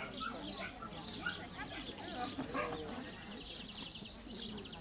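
Small birds chirping and trilling over and over, with quick rapid trills now and then.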